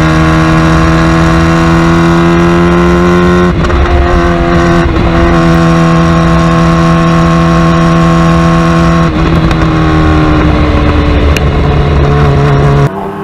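Superbike engine under hard, sustained throttle, its pitch climbing slowly. Brief breaks about three and a half and nine seconds in sound like gear changes, and the sound cuts off sharply just before the end.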